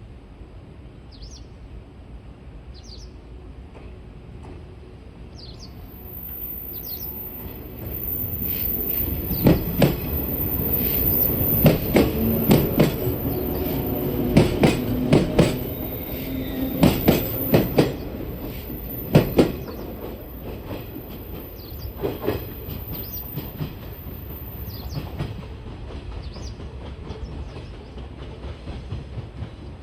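A train going by on the rails, its wheels clattering over the rail joints in a run of loud clicks through the middle, then fading away.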